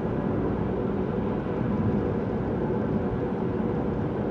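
Steady low rumbling noise with no distinct events, like a vehicle running.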